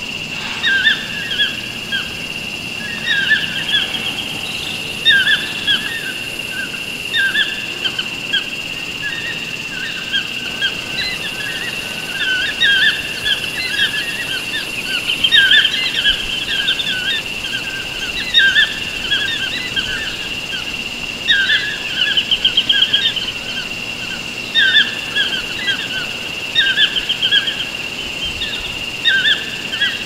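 Songbirds chirping and trilling in quick, repeated short phrases over a continuous high, steady tone.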